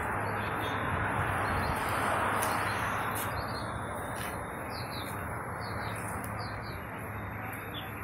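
Small birds chirping in short, high, repeated notes, starting about three seconds in, over steady street noise that swells briefly about two seconds in.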